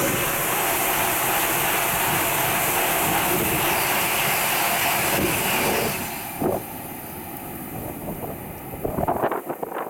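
Tohoku Shinkansen train passing at high speed: a loud, steady rush of wheel and air noise that drops away sharply about six seconds in. Gusts of wind buffet the microphone near the end.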